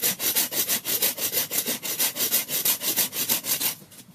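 Hand saw cutting through a piece of firewood, with quick, even back-and-forth strokes, several a second, that stop shortly before the end.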